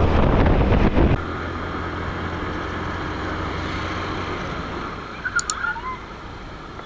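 Motorcycle riding noise with wind rushing over the microphone. About a second in it drops to a quieter, steady road and engine noise, with a few short clicks and chirps near the end.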